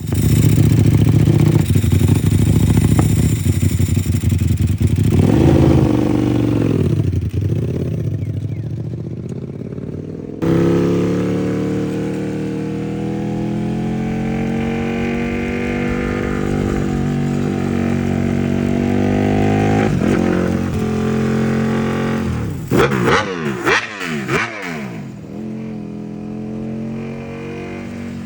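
Ducati Panigale V4R's V4 engine running through a Termignoni four-outlet exhaust. It is loud and revved up and down, held at a slowly rising speed, then given a quick burst of about four sharp throttle blips a little before the end. It settles back to a lower steady note.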